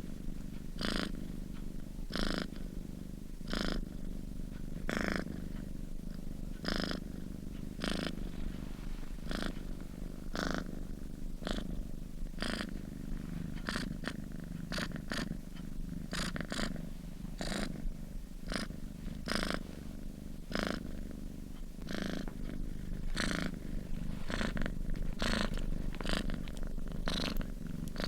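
Domestic cat purring in its sleep: a steady low rumble with a breathy swell a little more than once a second as it breathes in and out.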